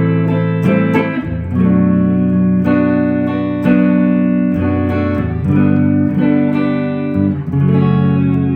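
1966 Gretsch 6120 Nashville hollow-body electric guitar being played in a sound test after a refret and new bone nut. Chords ring out, with a new chord struck about every second.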